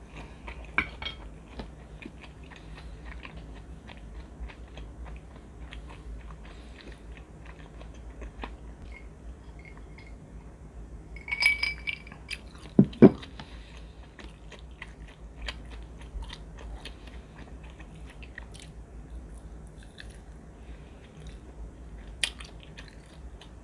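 Close-miked chewing and biting of grilled chicken skewer meat and noodles, with many small wet mouth clicks and smacks. About halfway through there is a brief clatter and a sharp knock as a wooden spoon is set down in a ceramic bowl.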